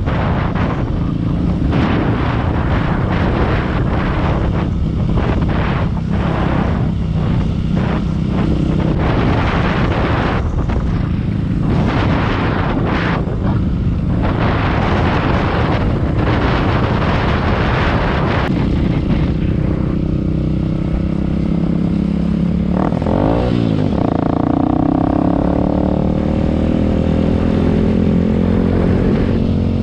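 Dirt bike engine running while riding, with wind gusting over the microphone through the first half. About two-thirds of the way in, the engine note rises and falls with the throttle.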